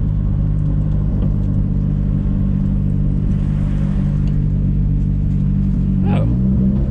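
Nissan S14's engine running steadily as the car drives slowly, its note holding one pitch. Near the end the pitch dips and then shifts as the driver changes speed.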